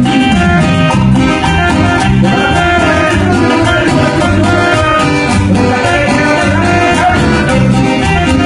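Cumbia band playing an instrumental passage with a steady beat and a bass line.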